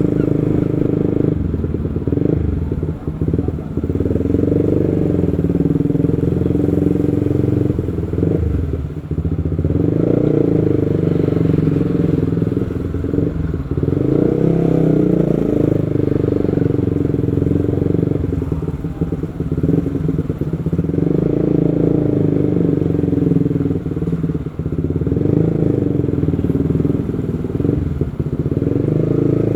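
Motorcycle being ridden through city traffic: its engine runs steadily and rises and falls in pitch as it speeds up and slows, under a continuous low rumble of road and wind noise.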